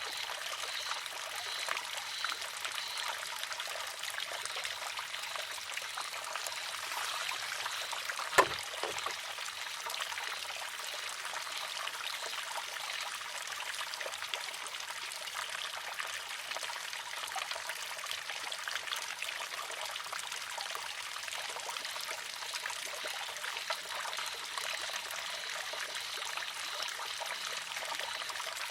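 Water trickling steadily into a wooden shishi-odoshi, with one sharp clack about eight seconds in as the filled arm tips over and strikes its rock.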